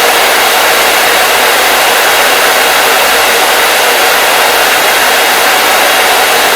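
Hair dryer running steadily, a loud even rushing hiss of blown air with a faint motor hum beneath and no change in pitch or level.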